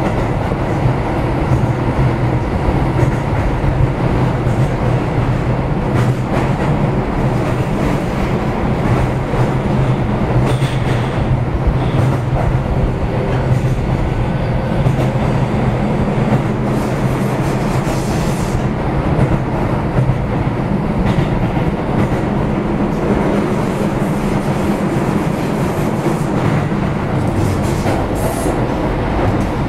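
Keio 7000 series commuter train running along the line, heard from inside the car: a steady rumble of wheels on rail with a low hum and occasional clicks.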